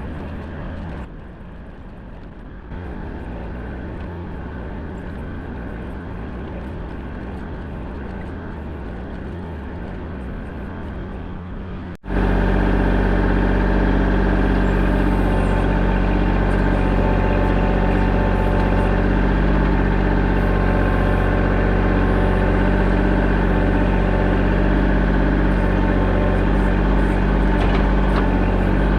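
Engine of a digging machine running steadily. About twelve seconds in the sound cuts abruptly and comes back louder and more even.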